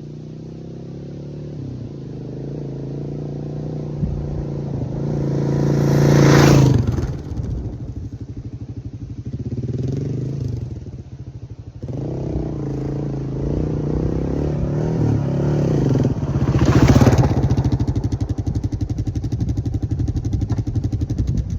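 Kawasaki KLR650 single-cylinder motorcycle engine riding around and passing by twice. It is loudest about six seconds in and again near seventeen seconds, and the pitch drops as it goes past each time.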